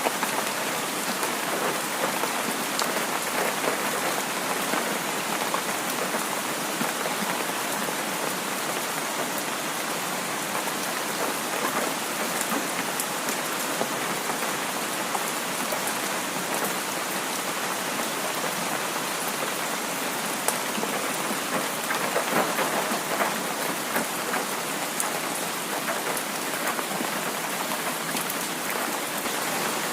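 Heavy rain falling steadily, an even hiss with the patter of individual drops.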